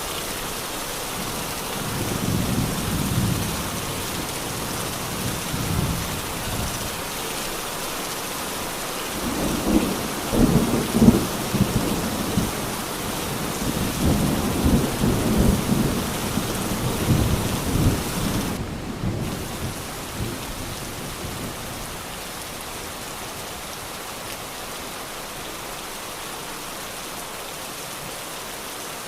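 Steady heavy rain with rolling thunder. The thunder rumbles several times in the first two-thirds, loudest about ten seconds in, then gives way to rain alone.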